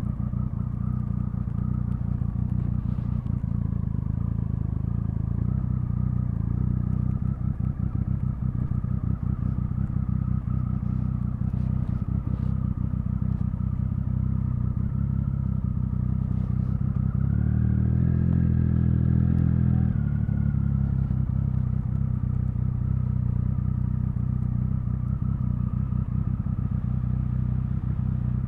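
Triumph Speed Triple 1050's inline three-cylinder engine running steadily at low revs on the move. About two-thirds of the way through, the revs rise briefly and the engine gets louder, then drop back to the steady note.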